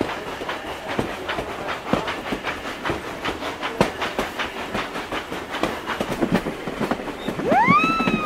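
Train wheels clicking over rail joints in an irregular clickety-clack. Near the end a pitched tone glides up, dips, rises again and falls away.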